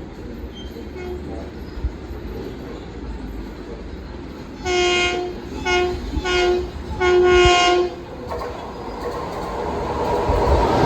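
Long Island Rail Road train horn sounding four blasts: long, two short, long. A passing train's rumble then builds steadily as it approaches.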